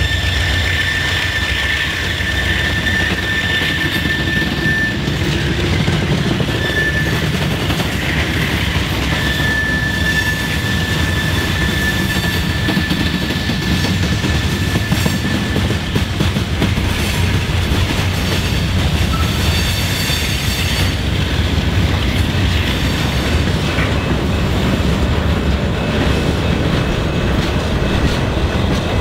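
Freight cars of a Norfolk Southern manifest train, covered hoppers and tank cars, rolling past at speed: a steady rumble of steel wheels on rail with clicking over the joints. A thin, high, steady squeal from the cars comes and goes through the first half and then fades out.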